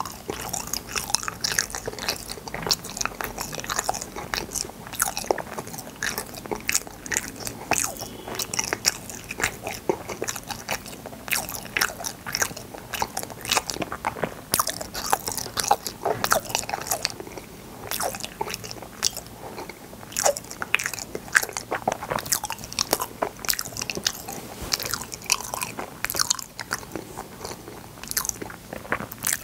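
Close-miked chewing and biting of fruit yanggaeng (sweet bean jelly): sticky, wet mouth clicks and smacks coming several times a second without a break.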